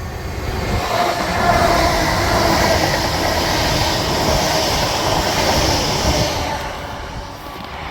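A train passing by on the rails. Its rolling noise builds up, holds loud for several seconds, then fades away near the end.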